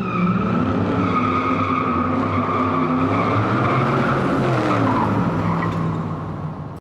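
Car engine revving up and down under a long, steady tire squeal. The sound cuts off abruptly near the end.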